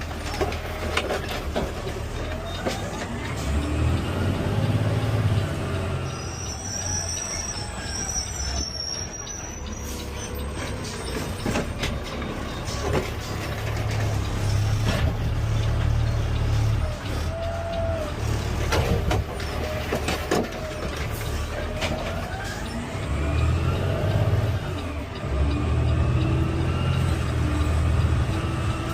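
Peterbilt 520 CNG automated side-loader garbage truck running, its engine revving up in surges three times, with rising-then-falling whines and scattered knocks.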